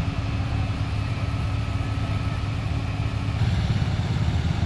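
A motor vehicle's engine idling with a steady low hum. A higher held tone in it stops about three and a half seconds in.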